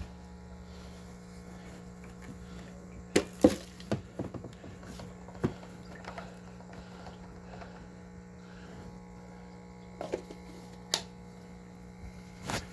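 A few sharp plastic clicks and knocks as a detached vacuum dirt bin is handled, over a steady low hum.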